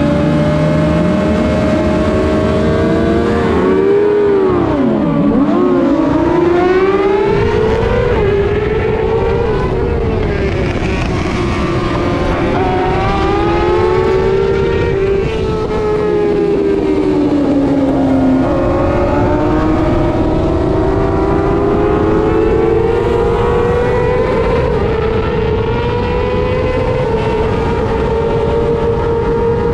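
Racing motorcycle engine running hard, its pitch rising and falling as it is revved through the gears, with a sharp drop around five seconds in and a high steady pitch over the last ten seconds, over a constant rush of noise.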